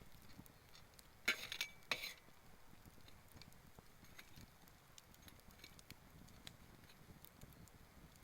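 Wood campfire crackling faintly with scattered small ticks and pops, and two louder, sharp noises a little over a second in and again about half a second later.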